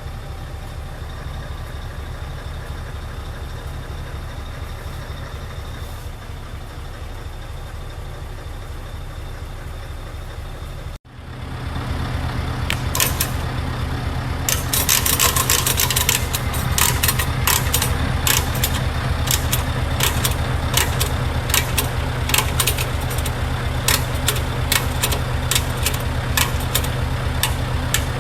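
Scania R770's 16.4-litre V8 diesel engine running with a steady low drone. About eleven seconds in it cuts out for an instant and comes back louder, now with many sharp clicks and knocks over it.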